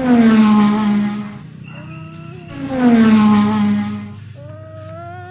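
Two long, loud 'vroom' engine noises made with the voice, each sliding down in pitch, for a toy monster truck sent off after a countdown.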